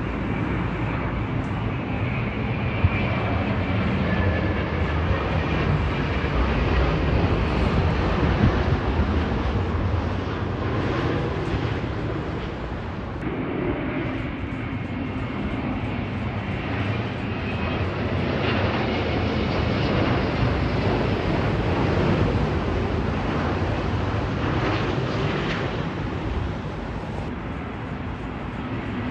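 Jet airliners on final approach, a steady engine rumble with a faint high whine. The sound changes abruptly about 13 seconds in and again near the end, as one arrival gives way to the next.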